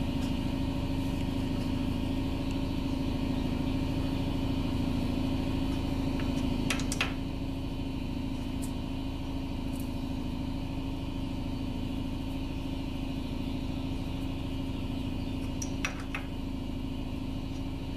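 Steady machine hum from shop machinery, dropping slightly in level about seven seconds in, with a few sharp metallic clicks around then and again near the end.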